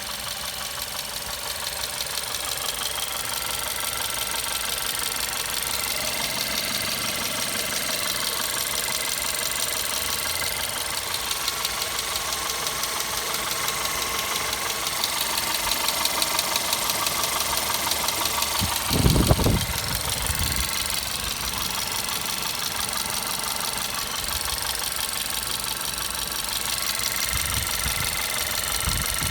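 Volkswagen Golf 6 1.4 TSI turbocharged four-cylinder petrol engine idling cold, with a rapid, regular ticking noise over the running; the owner does not know where the noise comes from. A brief louder low thump comes about two-thirds of the way through.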